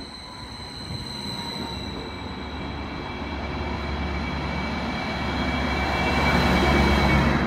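Greater Anglia's new Stadler FLIRT Class 755 bi-mode train running into the platform and passing close by, its rumble growing louder as the carriages go past, with steady high-pitched whines over the noise.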